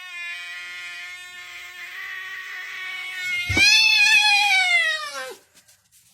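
Cat yowling: a long, steady low yowl, then about halfway through a louder, higher yowl that rises and slowly falls before stopping short.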